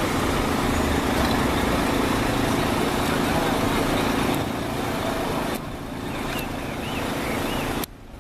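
Steady running of heavy vehicle engines with road traffic noise, a low hum under a wide haze; it drops away abruptly in steps, most sharply near the end, and faint distant voices come through in the middle.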